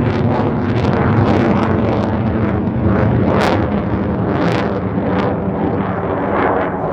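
F-16 fighter jet passing, a loud, steady rumble of jet noise with sharp crackles, the strongest about three and a half and four and a half seconds in.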